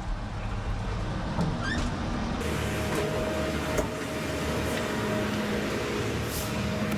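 Concrete mixer truck's diesel engine running steadily. About two and a half seconds in, the sound changes suddenly and a steady hum joins it.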